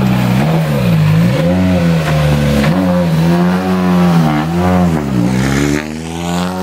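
World Rally Car's 1.6-litre turbocharged four-cylinder engine being revved repeatedly. The pitch dips and climbs back about five times, then falls away and rises steadily near the end.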